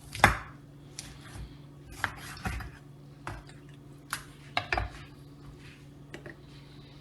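Knife and chicken pieces knocking on a cutting board as a chicken is cut into joints: a loud knock just after the start, then scattered knocks and clicks, over a steady low hum.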